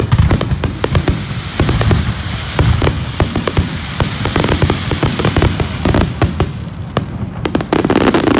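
A fireworks barrage close to the launch site: many shells bursting in quick succession, loud booms overlapping with crackle.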